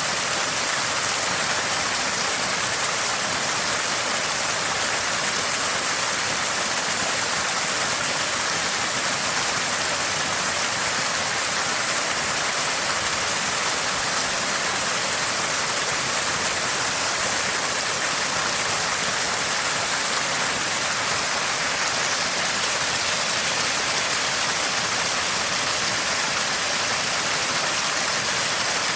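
Small spring water gushing and splashing steadily, a constant bright rush and gurgle of running water.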